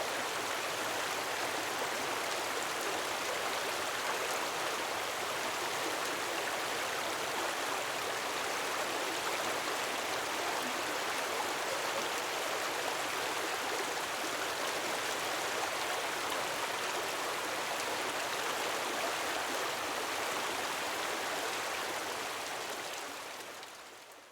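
Steady rushing water of a gentle waterfall, fading out near the end.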